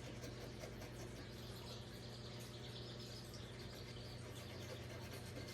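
Quiet background with a steady low hum and faint hiss.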